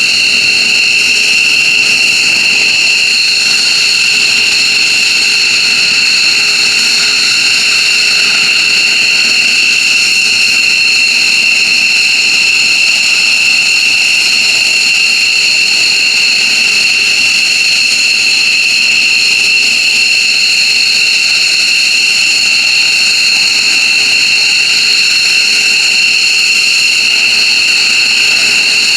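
F-15J Eagle's twin jet engines running steadily, a loud high-pitched whine over a rushing roar that holds constant without spooling up or down.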